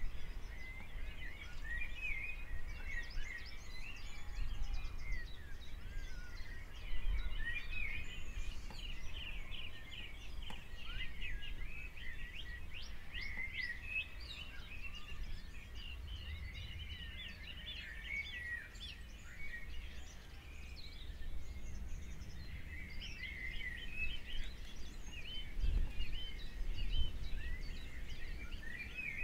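Small birds chirping and singing throughout, many short calls overlapping, over a low rumble.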